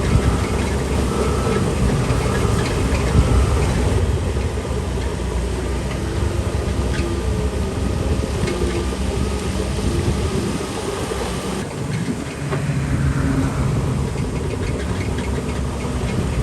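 Shantui DH17C3 Pro crawler bulldozer's diesel engine running steadily with clanking from the machine, easing off briefly about twelve seconds in before picking up again.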